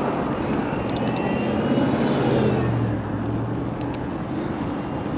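Passing traffic: a vehicle's drone with a low hum that swells about two seconds in and then slides slightly lower as it goes by, over steady road noise.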